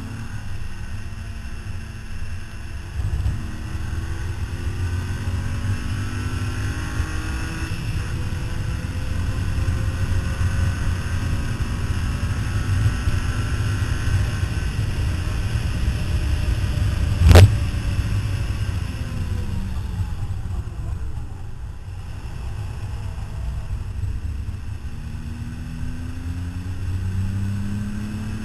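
Car engine on a race track accelerating hard, its pitch climbing through the gears, then dropping as the car slows and climbing again near the end, over a heavy rumble of road and wind noise. One sharp knock about two-thirds of the way through is the loudest sound.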